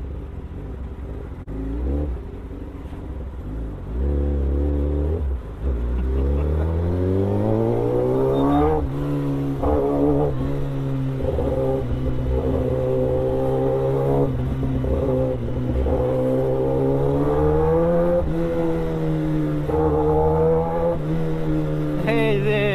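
Kawasaki Ninja ZX-10R's inline-four engine under way. It runs low at first, then rises in pitch as it pulls away, starting about five seconds in, and holds a fairly steady note with small rises and dips.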